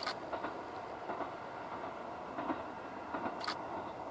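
A distant train running along the line: a steady running noise with scattered short clacks, a couple of sharper ones near the end.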